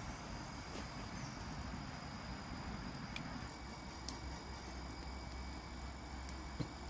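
Night insects calling steadily in several high, unbroken tones, with a few scattered sharp clicks.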